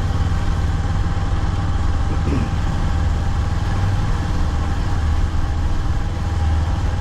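Motorcycle engine running steadily while riding, under an even rush of road and wind noise.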